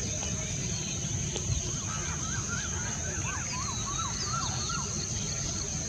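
A bird calling: a run of about a dozen short notes, each rising then falling in pitch, at about three or four a second for about three seconds from about two seconds in, with a few higher chirps over them. Underneath are a constant low rumble and a steady high-pitched whine.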